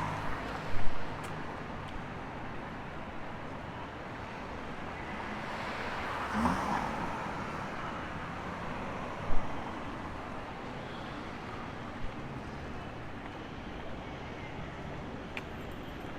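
City street ambience: a steady hum of road traffic, with a vehicle passing about six seconds in and a couple of brief knocks.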